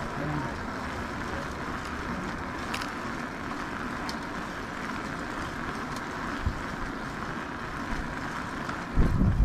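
Steady wind and tyre rolling noise on the camera while cycling, with a burst of low rumbling about nine seconds in.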